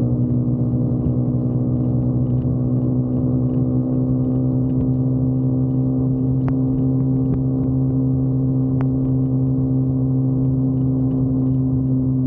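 Motorcycle engine running at a steady speed while cruising, holding one even pitch.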